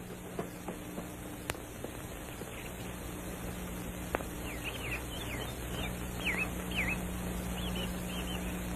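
Small birds chirping: a run of short, high, down-slurred chirps starting a couple of seconds in, over a low steady hum.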